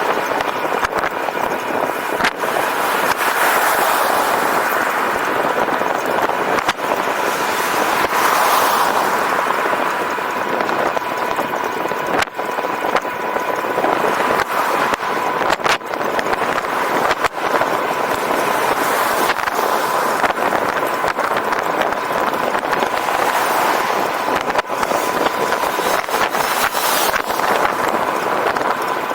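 Riding noise from a moving e-bike: steady wind and road rush with a thin, steady whine, broken by scattered sharp knocks from bumps.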